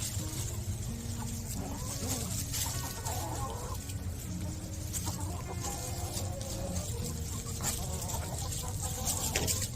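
A flock of chickens clucking and calling while they feed, over a steady low rumble, with scattered short clicks and taps.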